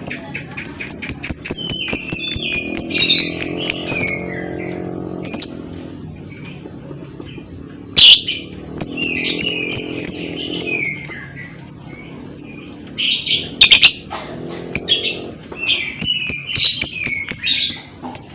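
Lovebird chattering: fast runs of sharp, high chirps mixed with short squeaky notes that fall in pitch, coming in bursts with short pauses between them. A low steady drone sits underneath in stretches.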